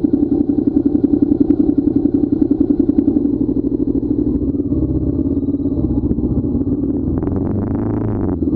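Motorcycle engine running on the move, with a strong, even pulsing beat for the first three seconds that then smooths out. A brief higher-pitched sound rises over it from about seven seconds in.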